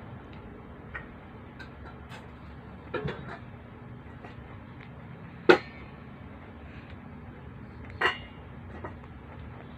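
Scattered light clicks and knocks, a few seconds apart, over a low steady hum; the sharpest knock comes about halfway through.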